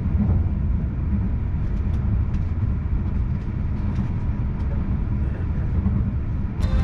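Cabin noise of an Akita Shinkansen Komachi train running: a steady low rumble with faint light clicks. Near the end the noise suddenly turns louder and harsher, with a whine in it.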